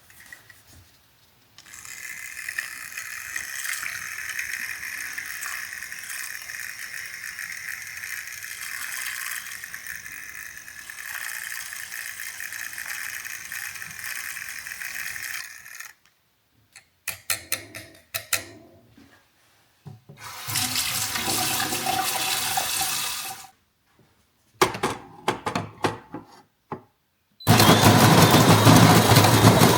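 Coffee being made: a steady rushing for about fourteen seconds, then a few clicks and knocks, a second shorter rushing, more clicks, and near the end a coffee machine starts up with a loud, steady hum.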